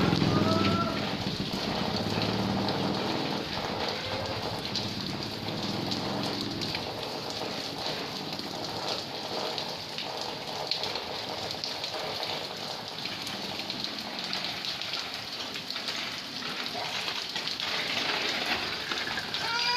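Steady rain falling and pattering on surfaces, an even hiss throughout, with an engine fading away in the first seconds.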